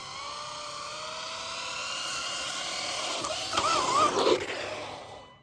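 Electric motor of a radio-controlled car whining, its pitch climbing slowly, then wavering up and down with louder bursts, before cutting off suddenly.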